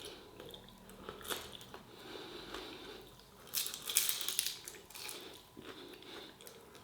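A person biting into and chewing a crispy vegetable spring roll: brittle pastry crackling, loudest in a run of crunches about halfway through.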